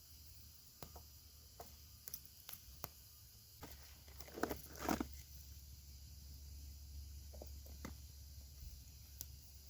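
Small campfire faintly crackling with scattered sharp pops, and two louder rustling scuffs near the middle.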